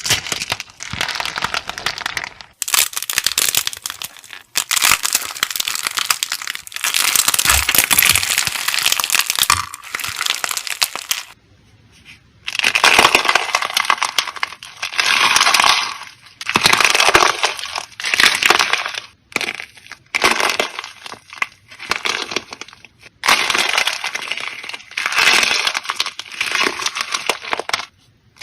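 Crunchy slime with a thin, brittle outer shell cracking and crunching as it is pressed and squished, in repeated bursts of dense crackling, with a brief pause about twelve seconds in.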